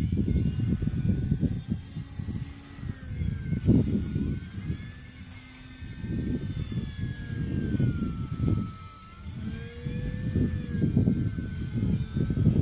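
Electric motor and propeller of a Night Visionaire radio-controlled model plane whining in flight, the pitch sliding slowly up and down, under loud gusty low rumbling.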